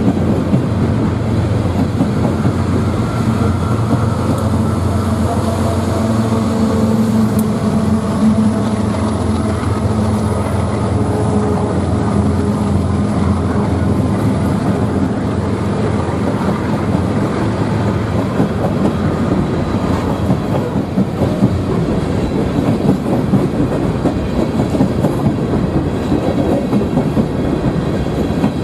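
A freight train rolling past at close range. A diesel locomotive's engine hum is heard during the first half and fades out; after that the steady rolling noise of the cars' wheels on the rails continues.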